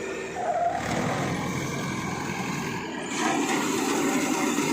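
Engine of a rice harvesting machine running steadily, getting louder about three seconds in.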